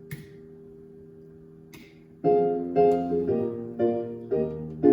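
Piano-like keyboard intro to a children's sing-along song. Soft held chords at first, then louder chords struck about twice a second from about two seconds in.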